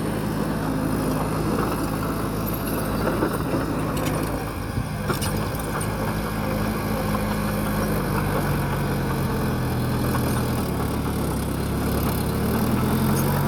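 Heavy diesel engine of earthmoving machinery working, its pitch dropping about a third of the way in and climbing again near the end, with a few short knocks.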